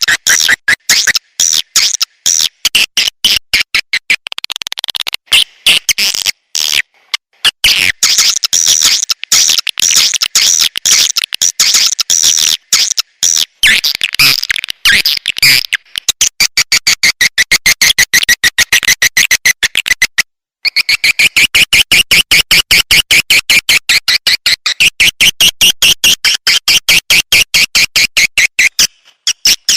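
Recorded swiftlet calls: fast trains of high, clicky chirps at about five a second, with a brief break about twenty seconds in. This is a lure call track of the kind played through tweeters to draw swiftlets into a nesting house.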